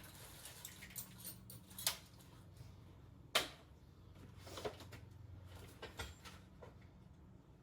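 A few sharp clinks and taps of metal hand tools being handled, the loudest about halfway through, over a low steady hum.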